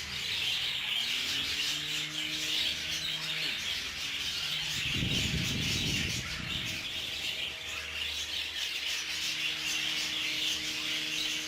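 Small plug-in phone fan's motor spinning up with a rising hum that settles to a steady pitch, stopping and starting again after a brief rustle of handling about five seconds in.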